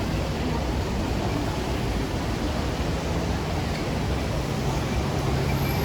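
Steady hiss of rain on a city street, with a low rumble of traffic underneath.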